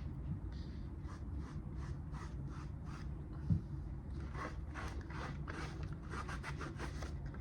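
Quick, repeated rubbing strokes on a hard plastic 3D-printed mask as excess brown weathering paint is wiped off, with a single soft knock about three and a half seconds in.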